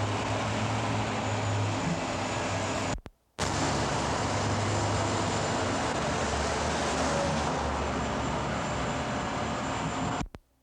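Steady vehicle and traffic noise with a low hum, broken by two brief dropouts, one about three seconds in and one near the end.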